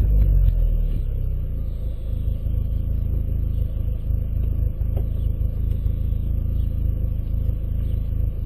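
VW Golf 4 exhaust with a JOM stainless-steel rear silencer, idling steadily with a low, even note. The sound settles down from a rev during the first second.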